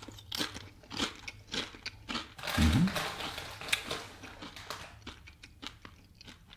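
Crunchy chewing of a Nacho Cheese Doritos tortilla chip: irregular sharp crunches, thicker in the first half, with a brief low hum about two and a half seconds in.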